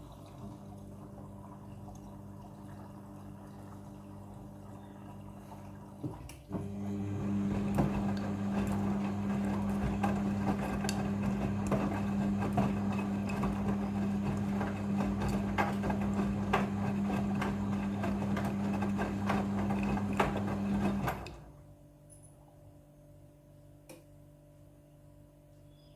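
Midea front-loading washing machine running: a steady motor hum, joined about six seconds in by louder water sloshing and splashing in the drum. The louder sound cuts off suddenly a little past twenty seconds, leaving a faint hum.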